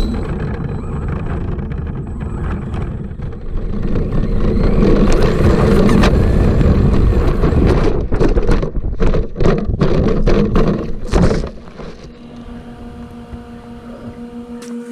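Arrma Granite 3S brushless monster truck running flat out, heard from a camera mounted on the truck: heavy wind buffeting and drivetrain and tyre rumble, with a quick series of knocks and rattles from bumps about eight to eleven seconds in. Then it eases off and a steady electric whine is left near the end.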